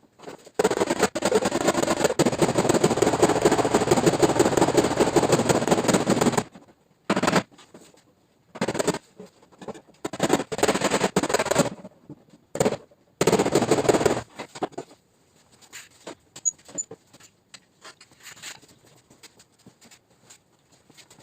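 Rapid mechanical rattling of many fast impacts in bursts: one long run of about six seconds, then several shorter bursts about a second each, with quiet gaps between.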